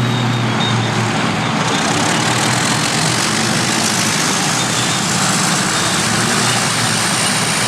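Large diesel earthmoving machines running under load, a loud, dense, steady engine noise. It grows brighter and fuller about two seconds in and then holds level.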